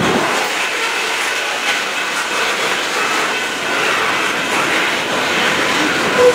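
Freight train's coal hopper cars rolling past, a steady rumble of wheels on rail with a faint clatter of wheels over the rail joints.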